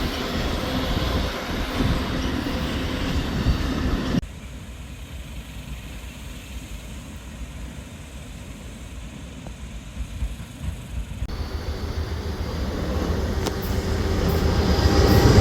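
Rumble and rail noise of a passing train. The sound cuts off abruptly about four seconds in to a quieter stretch, then builds steadily again near the end as a train draws closer.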